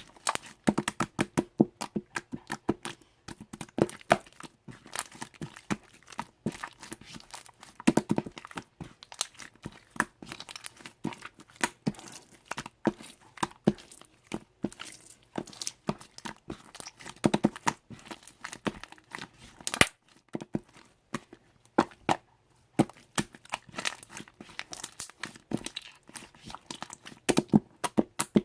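Slime being squeezed and stretched by hand, giving rapid, irregular popping and crackling clicks.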